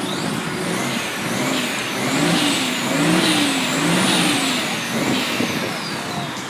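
Siren-like wail whose pitch sweeps up and down about once a second, over steady vehicle noise.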